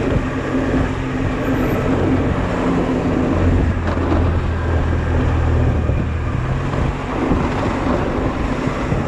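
Honda Silver Wing maxi-scooter engine running steadily at low speed in slow traffic, with road and wind noise. A deeper low hum swells for a few seconds in the middle.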